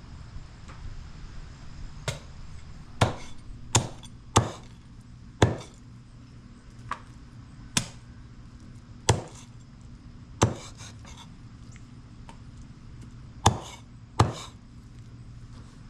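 Chicken being chopped into pieces with a blade: about eleven sharp, separate chops, irregularly spaced, with pauses between groups.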